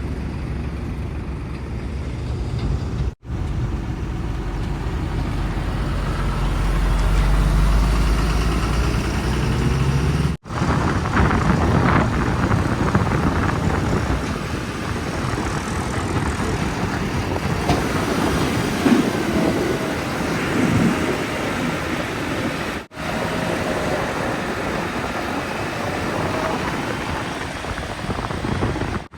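Heavy diesel machinery running steadily, the sound breaking off abruptly three times where one clip cuts to the next. From about ten seconds in, sharper clattering noises mix in with the engine.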